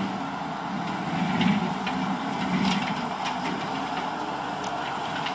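Skid steer engine running steadily while it drives a hydraulic brush cutter attachment, with a few short, sharp cracks scattered over the steady hum.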